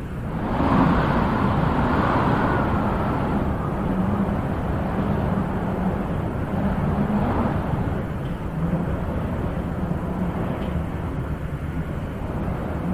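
Wind blowing steadily, swelling in a gust from about half a second in that eases over the next few seconds.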